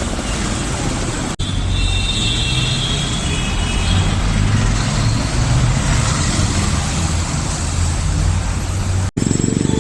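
Steady city road traffic noise, with vehicles passing. The sound cuts off abruptly and resumes about a second and a half in and again near the end.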